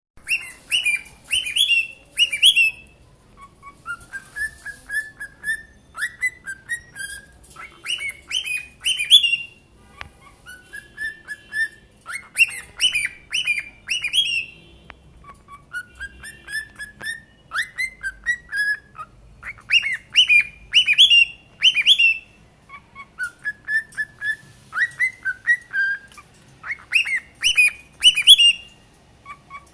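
Young cockatiels singing: phrases of short, quickly rising whistled notes, repeated over and over in bursts of a second or two with short pauses between.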